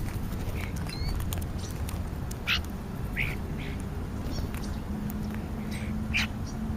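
Birds at a feeding spot giving short, harsh calls, about six of them spread over a few seconds, over a steady low background rumble.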